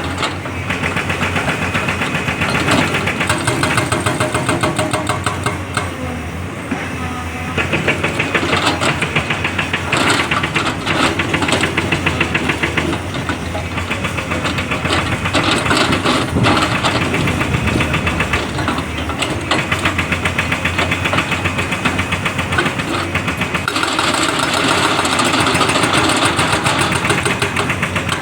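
Heavy diesel engine of an excavator running steadily with a fast knocking pulse, busier and hissier from about 24 seconds in as the machine works harder.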